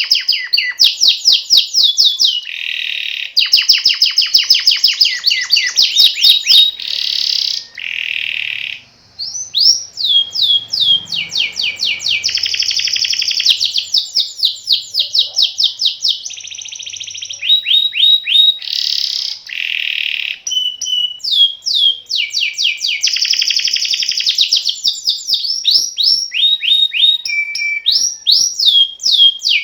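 Domestic canary singing a long, continuous song of rapid trills and repeated sweeping notes, changing phrase every second or two, with one brief break about eight seconds in.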